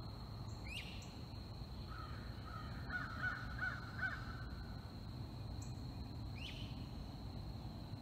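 Wild birds calling in a forest: a quick run of four short, harsh calls about three to four seconds in, and a short rising chirp near the start and again near the end. Underneath are a faint steady high tone and a low rumble of outdoor background noise.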